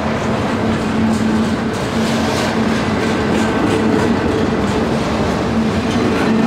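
Canadian Pacific freight train rolling past at speed: a loud, steady rumble with a constant hum, and wheels clicking over the rail joints about twice a second.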